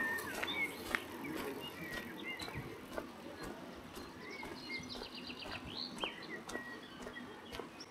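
Small birds singing and chirping, with a quick trill of repeated notes about five seconds in, over a steady background hiss and a few sharp clicks.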